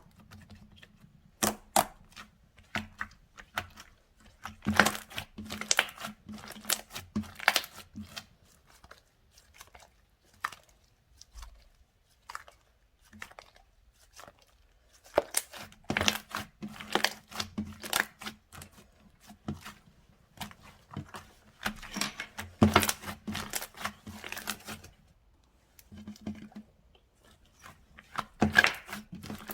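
Slime being squeezed, pulled and stretched by hand, giving clusters of sticky crackling and clicking with short pauses between handfuls.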